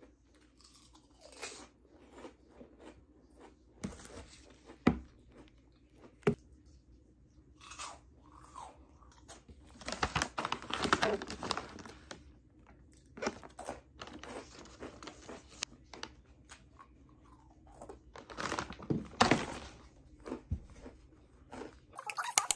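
Food being chewed and crunched close to the microphone, with a few sharp knocks and two longer stretches of louder crunching, one about ten seconds in and one near the end.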